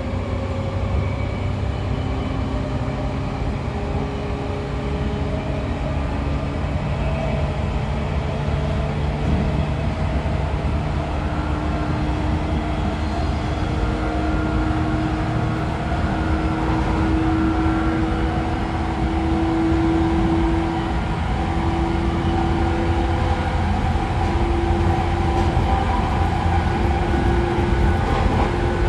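Running sound of a JR 113 series electric train, heard inside motor car MoHa 113-5716: the MT54 DC series-wound traction motors hum and the DT21B bogies rumble on the rails. The motor hum rises slowly in pitch as the train gains speed, then levels off.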